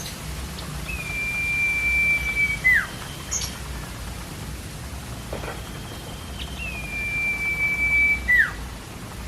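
Common iora singing: two long, level whistles, each held for nearly two seconds and ending in a sharp drop in pitch, with a couple of short high chips between them. A steady hiss runs underneath.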